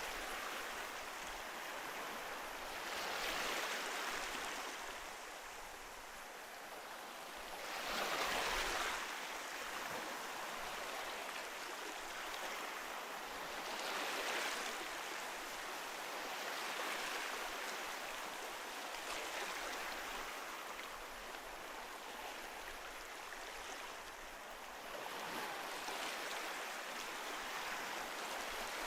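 Ocean surf: a steady wash of waves with a swell every five seconds or so as each wave breaks, the biggest about eight seconds in.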